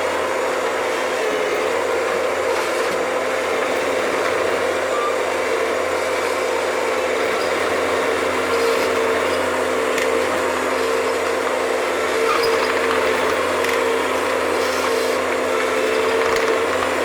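Bobcat skid-steer loader running steadily under load, its engine and hydraulics giving a constant whine that wavers slightly in pitch, with a few faint clicks.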